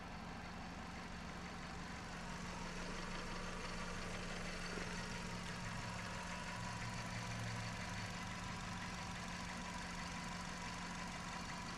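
2010 Hyundai Accent's four-cylinder engine idling steadily.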